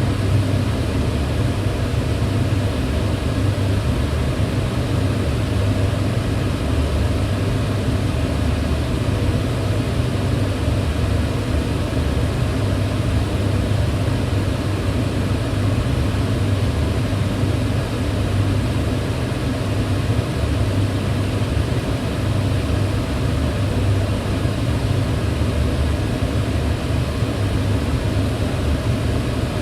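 Kitchen range hood fan running steadily, a constant whooshing rush of air with a low hum underneath.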